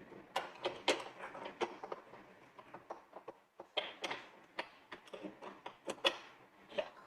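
Scattered light clicks and knocks of an espresso machine's filter holder and coffee scoop being handled as ground coffee is put into the filter.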